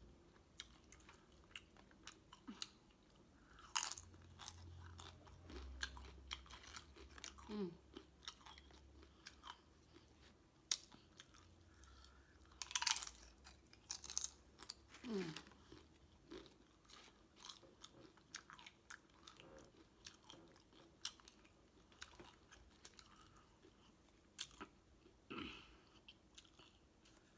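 A person chewing and biting food close to the microphone, with irregular wet mouth clicks and smacks.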